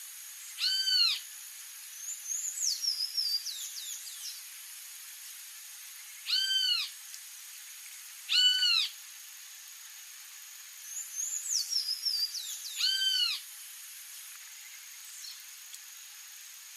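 Wild songbirds calling: four short, arched calls spaced a few seconds apart, and two runs of quick twittering notes, over a steady high-pitched hiss.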